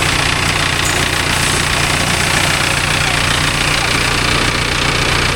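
An engine idling steadily, with an even hiss over it.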